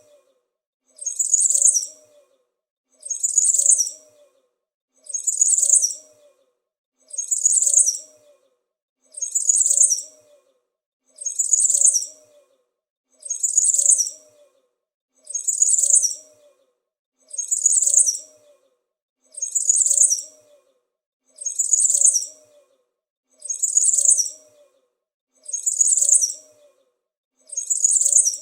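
A small bird chirping, high-pitched: the same short burst of chirps repeats at an even pace, about once every second and a half.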